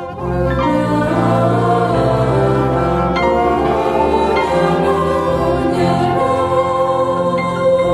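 A choir singing a song in full chords, the sustained notes shifting every second or so.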